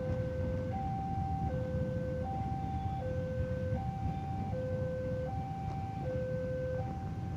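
A two-tone electronic warning signal alternating steadily between a higher and a lower note, each held about three-quarters of a second, over a constant low rumble.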